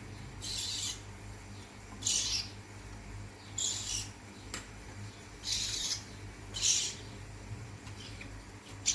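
Lovebird chicks giving short, harsh, hissing begging calls, five in all, one every second and a half or so, as they are fed.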